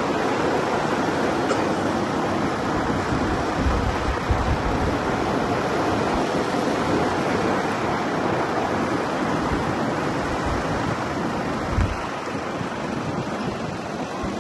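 Steady rushing wind and road noise from a moving vehicle, with low gusts of wind buffeting the microphone about four seconds in and again near twelve seconds.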